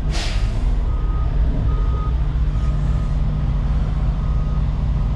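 Heavy diesel construction equipment running steadily, with a backup alarm beeping faintly about once a second over the engine. A short air hiss comes right at the start.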